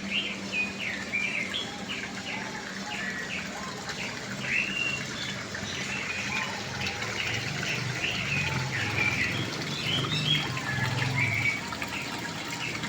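Small birds chirping and twittering in quick, repeated short calls, with a low steady hum underneath.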